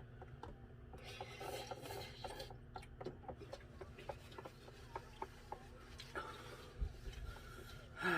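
Quiet eating sounds: scattered light clicks and scraping of chopsticks working spicy ramen noodles in their container, with patches of rubbing noise.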